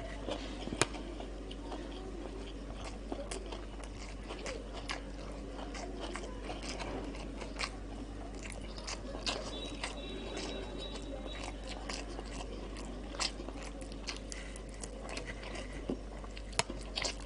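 Close-miked eating: biting and chewing breaded fried chicken and rice, with crunching and many short wet mouth clicks at irregular intervals. A steady low hum runs underneath.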